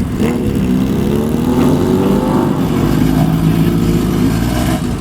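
Motorcycle engine revving as the bike rides off, its pitch rising over the first two seconds and then settling.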